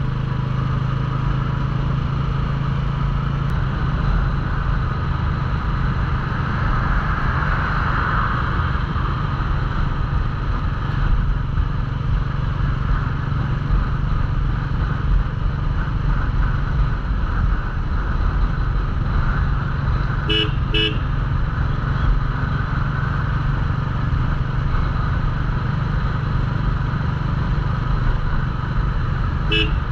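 Royal Enfield Classic 350 single-cylinder engine running steadily at cruising speed, with wind and road noise. About two-thirds of the way through a vehicle horn gives two short toots, and another double toot comes at the end.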